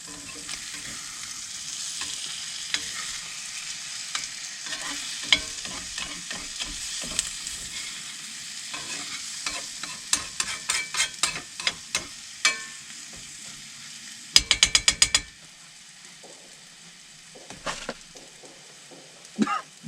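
Bratwurst and eggs sizzling in a frying pan, with a cooking utensil scraping and tapping against the pan. About three-quarters of the way through comes a brief, rapid rattle of clicks, after which the sizzle is much fainter.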